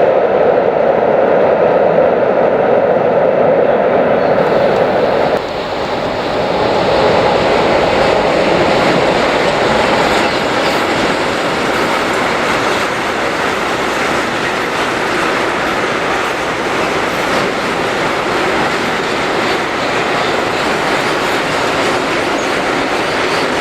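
A train running past on the tracks, with a loud, steady rolling noise of wheels on rail. A strong hum in it stops abruptly about five seconds in, and the rolling noise of the cars carries on.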